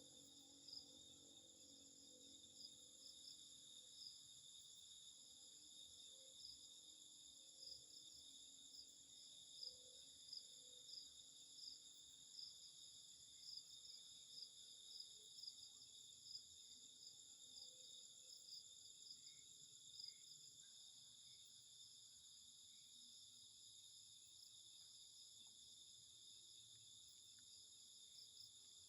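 Faint night chorus of crickets and other insects: steady high-pitched trilling at several overlapping pitches, with frequent brief, slightly louder chirps standing out.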